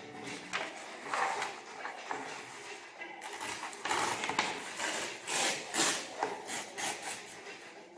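A sheet of A4 paper being folded and creased by hand: a series of short rustling, scraping strokes, coming thickest in the second half.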